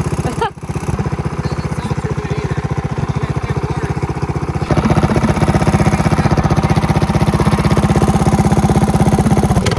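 Mini bike's small single-cylinder engine running with a steady, even beat. It dips briefly about half a second in, then about five seconds in picks up to a louder, faster steady run. The idle is one the riders say it is not supposed to have.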